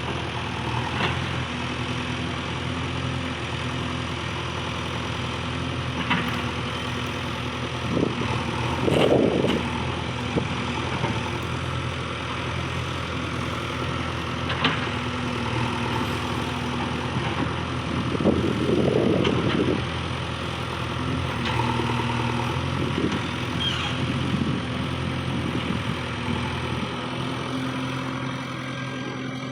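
Diesel engine of earthmoving machinery running steadily at low speed. Two louder rushes of noise come about 9 and 19 seconds in, with a few sharp knocks between them.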